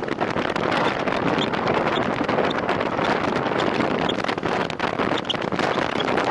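Steady wind rushing over the microphone of a time-trial bike ridden at racing speed.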